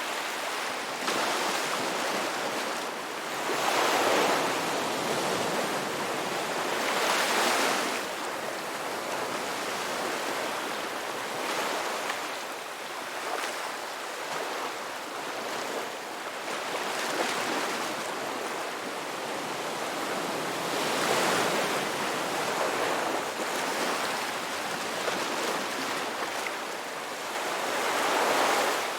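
Ocean surf: waves breaking and washing in as a continuous hiss that swells louder with each breaker, several times over.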